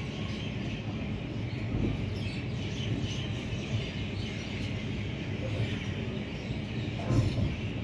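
Kalka–New Delhi Shatabdi Express train running slowly out of the station, a steady low rumble of the moving coaches, with one sharp knock about seven seconds in.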